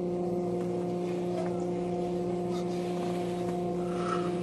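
A steady engine or motor hum, holding one constant pitch with its overtones.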